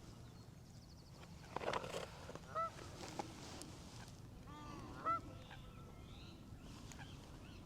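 A goose honking twice, two short nasal calls about two and a half seconds apart, with a brief rustle just before the first.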